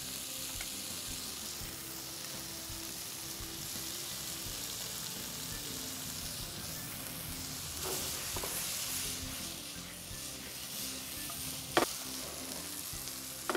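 Paneer, onion and capsicum stir-fry sizzling steadily in oil in a frying pan on a gas stove while it is stirred and tossed. There is a single sharp knock near the end.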